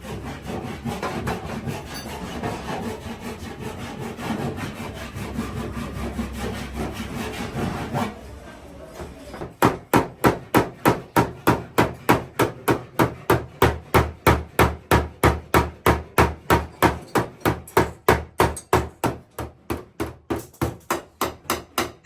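Continuous rough rasping for the first eight seconds, then steady hammer blows on a car body panel during dent repair, about three strikes a second.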